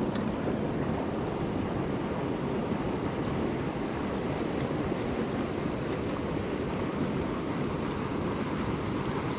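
Steady rush of muddy storm water pouring out of a pipe outlet and swirling in the pool below.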